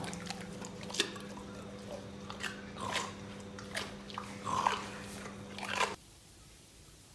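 Irregular crunching and chewing, short crackles and clicks over a steady low hum; it all cuts off abruptly about six seconds in.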